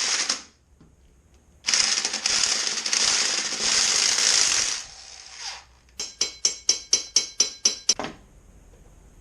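Engine-assembly work noises: a hiss lasting about three seconds, then a fast run of about a dozen sharp clicks over two seconds.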